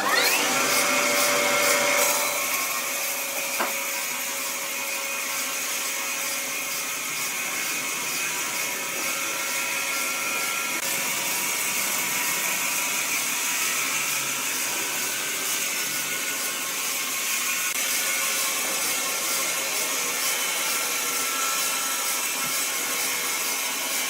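Woodworking machine cutting wood, a steady dense whirring noise that holds without a break.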